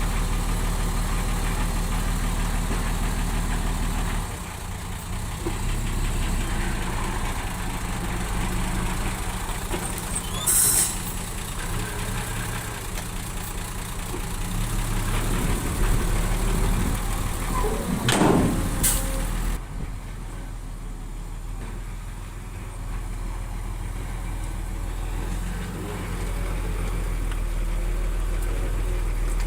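Heavy diesel engine of a bulldozer running, its speed and load shifting now and then. There is a short hiss about a third of the way in, and a brief louder noise about two-thirds in.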